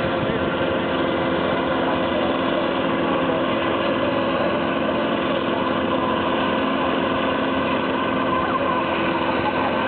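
Volvo BM 700 tractor's diesel engine running at a steady speed, with no revving.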